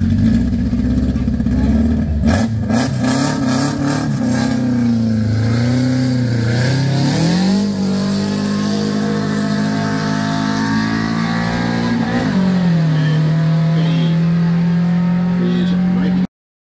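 A competition car's engine held at high revs on the start line, then launching and accelerating hard up the hill. Its pitch climbs and drops at each upshift, with a shift at about the middle and another near the end.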